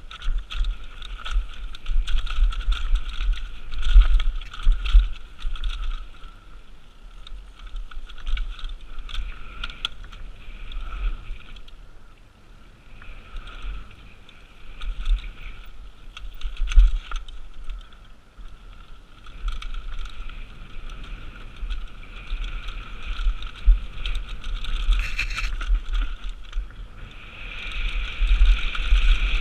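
Mountain bike ridden fast downhill over rough trail, heard through a GoPro: wind buffeting and low thumps from bumps, with a steady high buzzing whir that swells and fades as the bike speeds up and slows.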